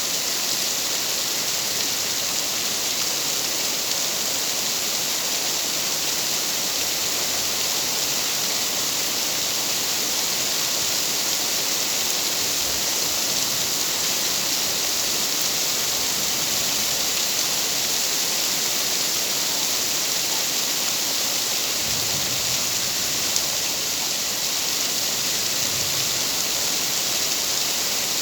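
Steady, heavy rain falling: an even, unbroken hiss of water.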